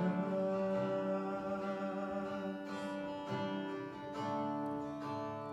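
Acoustic guitar strumming chords of a worship song, with some singing over it.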